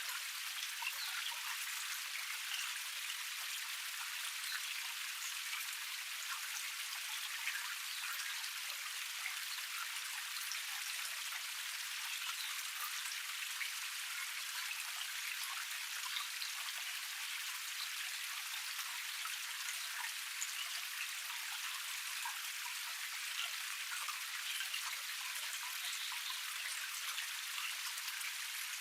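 Small cascade waterfall: water spilling and splashing steadily over one low tier, an even hiss of many small splashes with no low rumble.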